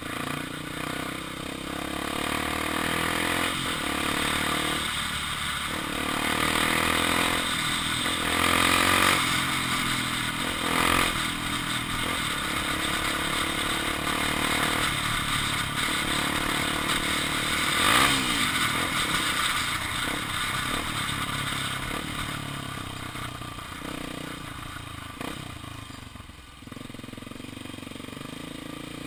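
Honda XR 250 Tornado's single-cylinder engine running under way, its pitch rising and falling with throttle and gear changes, over steady wind and road noise.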